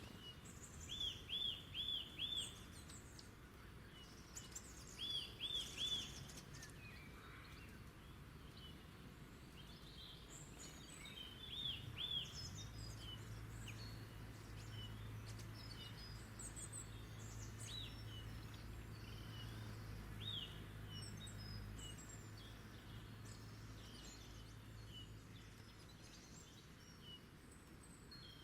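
Wild birds chirping and singing. One bird repeats a phrase of about four quick arched notes three times in the first half, with scattered higher chirps from others throughout. A low steady hum comes in about halfway and fades out near the end.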